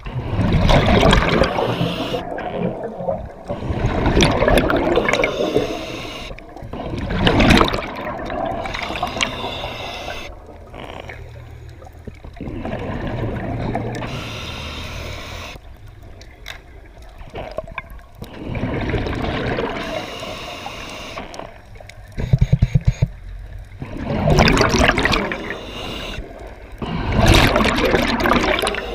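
Water gurgling and sloshing in irregular surges every few seconds, with a quick rattling run of pulses near the end.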